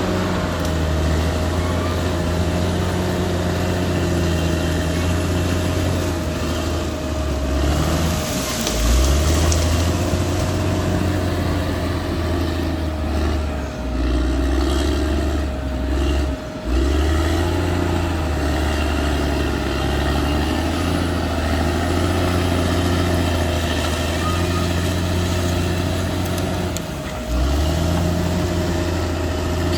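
Caterpillar D6R XL bulldozer's diesel engine running under load, its low note dipping and picking up again several times as the machine works, with a steady whine alongside. It is loudest about eight to ten seconds in.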